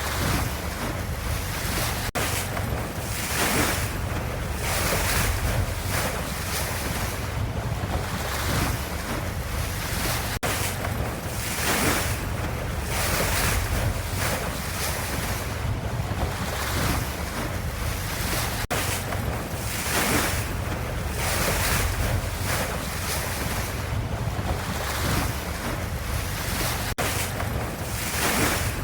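Ocean wave ambience: a steady wash of water that swells and eases every couple of seconds. A brief dropout about every eight seconds marks a short looped recording.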